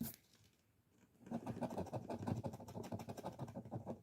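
Scratch-off lottery ticket being scratched: a short click, a pause of about a second, then quick rapid scraping strokes on the card's coating.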